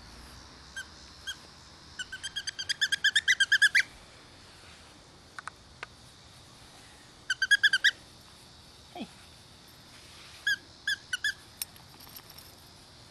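A bird calling in three bursts of rapid, high chirps, about eight a second. The longest burst comes a couple of seconds in and lasts nearly two seconds, with shorter ones in the middle and later on.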